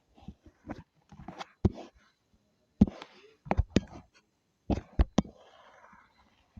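Irregular sharp taps and clicks with short scratchy strokes from a drawing tool working on a surface, several of them loud and sudden.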